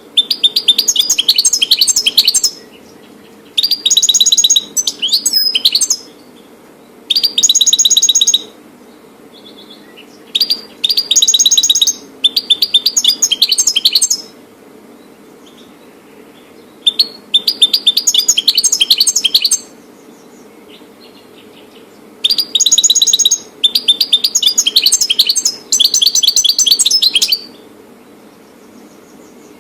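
European goldfinch singing in loud, rapid twittering phrases, six bouts of a few seconds each with short pauses between. A faint steady hum sits underneath.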